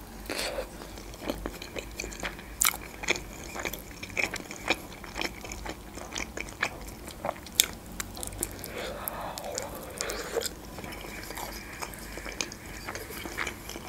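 A person eating Georgian khinkali dumplings: biting into the soft dough and wet chewing, with many short, irregular mouth clicks.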